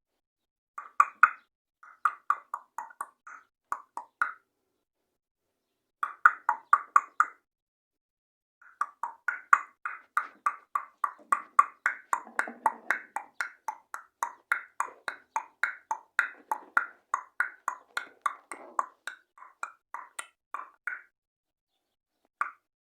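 Budgerigar chirping in rapid runs of short, sharp calls, about four a second, in three bouts; the last and longest lasts about twelve seconds.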